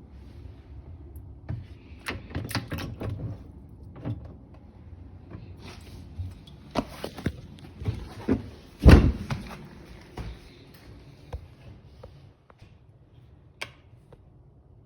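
Knocks, clicks and clatter of a dishwasher being opened up and taken apart, with one heavy thump about nine seconds in.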